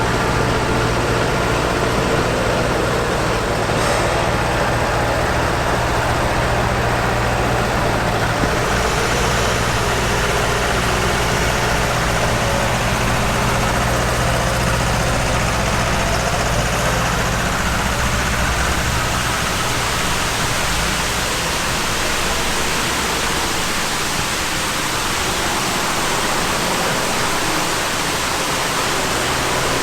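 Heavy haulage truck's engine running steadily at low revs under a constant rushing noise. The low engine hum fades about two-thirds of the way through, leaving the rush.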